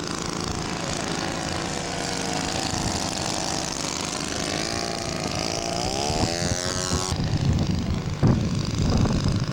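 Propeller engine of a radio-controlled scale model of a Siemens-Schuckert WWI fighter flying an overshoot (go-around) pass, its steady drone climbing in pitch about six seconds in as power comes on. The sound changes abruptly about seven seconds in to a duller low rumble.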